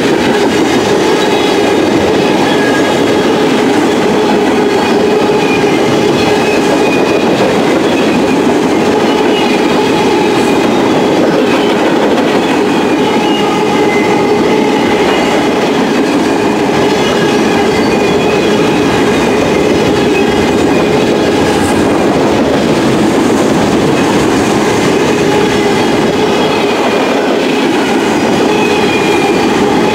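Freight train's cars (tank cars, covered hoppers, boxcars) rolling steadily past at close range: a continuous loud rumble and clatter of wheels on rail, with thin high-pitched tones coming and going above it.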